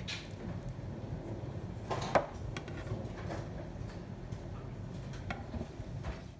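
A few light clinks and knocks of tableware being handled, the loudest about two seconds in, over a steady low background noise.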